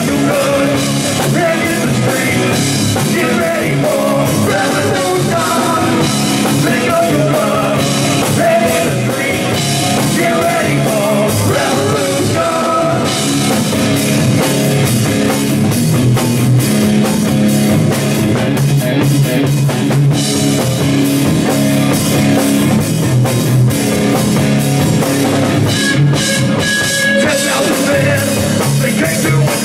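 Live rock band playing, with drum kit, electric guitar and singing.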